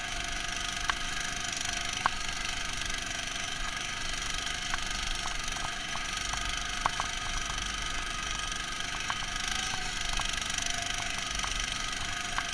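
Neva MS-1's engine running steadily, muffled by the camera's protective box, with scattered sharp clicks, the loudest about two seconds in and again near seven seconds.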